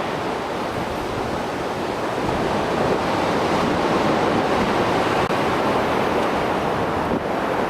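Storm-swell surf of the Mediterranean Sea breaking and washing in a steady, continuous rush.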